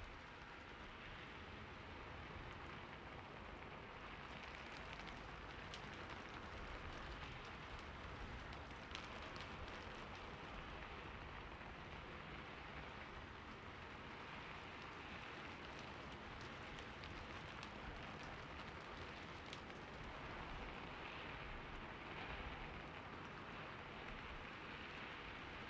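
Steady rain falling on a roof, a soft even patter with scattered individual drops ticking.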